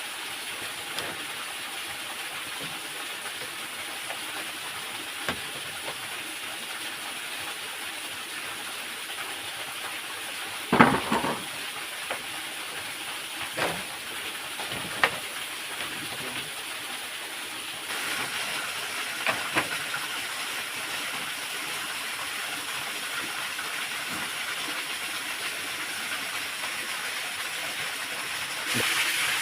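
Steady rushing hiss of a nearby waterfall, with a handful of short knocks, the loudest about eleven seconds in. The rush grows a little louder around eighteen seconds and again near the end.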